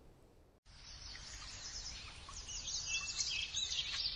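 Birds chirping and twittering over faint outdoor background noise. The sound sets in abruptly about half a second in, with many quick high chirps that grow busier toward the end.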